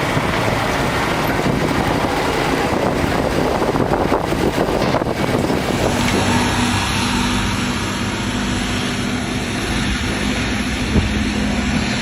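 Heavy truck running with road and wind noise. About six seconds in it gives way to a steadier engine hum with a constant low drone.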